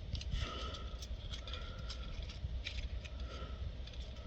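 Faint, scattered light clicks and taps of metal hardware being handled, over a low background rumble.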